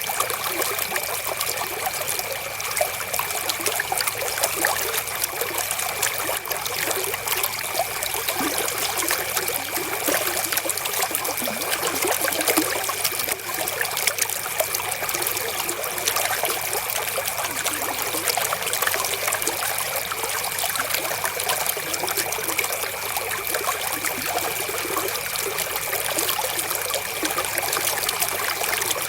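River water flowing steadily, an even trickling and splashing rush with no breaks.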